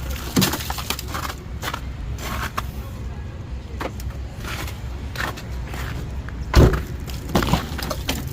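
Several knocks and handling sounds at a car, the loudest a sharp thump about six and a half seconds in, over a steady low rumble.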